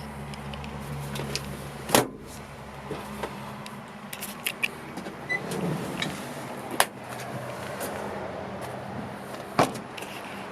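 Sharp knocks and clicks from a 1993 Subaru Sambar kei truck's seat and body panels being handled: three solid clunks, the loudest about two seconds in, another near the middle and one near the end, with lighter clicks between.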